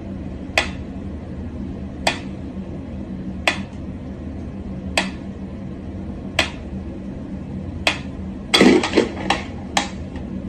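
Sharp knocks or clinks repeating about once every second and a half, then a quick flurry of several near the end, over a steady low hum.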